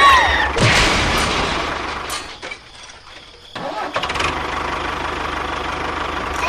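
A mini tractor's small engine runs with a steady low throb, dies down for about a second, and starts running again about three and a half seconds in. A short falling whistle-like tone sounds at the very start.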